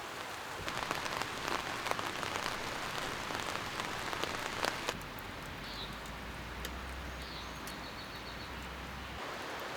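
Rain falling steadily, with many scattered louder drops ticking in the first half. A faint low hum comes in about halfway and stops near the end.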